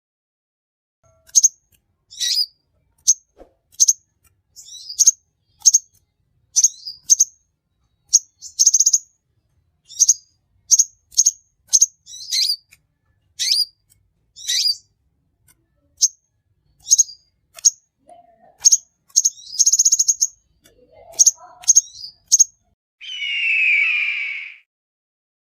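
A bird calling: a run of short, sharp, high chirps, some in quick doubles and small trills, then near the end a longer, harsher call lower in pitch.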